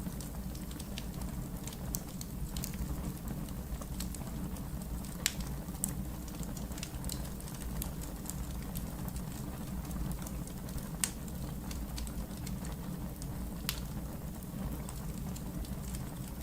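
Wood fire burning in a fireplace: a steady low rumble with scattered crackles and a few sharper pops, the loudest about five, eleven and fourteen seconds in.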